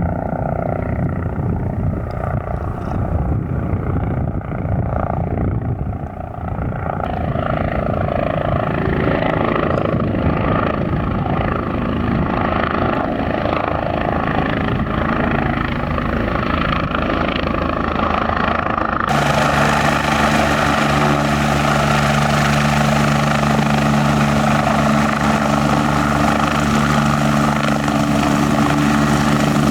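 Eurocopter EC145 twin-engine helicopter running, its engines and rotors giving a continuous hum. About two-thirds of the way through the sound changes abruptly, becoming brighter and steadier, with several low fixed tones.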